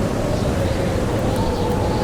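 Blizzard wind blowing steadily, a dense rush of noise with a faint wavering howl that rises and falls, and a few faint crackles of a wood fire.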